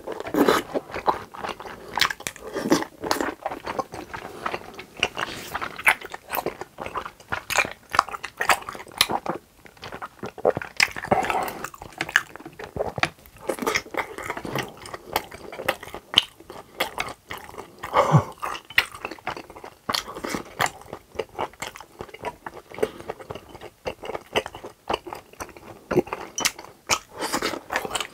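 Close-miked chewing of grilled pork intestines and tteokbokki rice cakes: a steady, irregular run of short wet smacks and clicks of the mouth.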